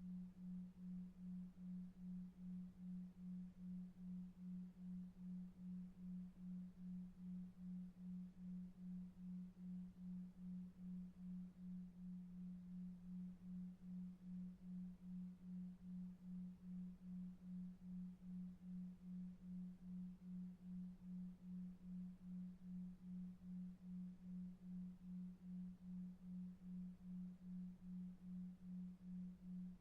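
A low, pure humming tone pulsing evenly, roughly one and a half times a second, over a faint low rumble of brown noise: a slow-pulsing sleep tone meant to suggest delta waves.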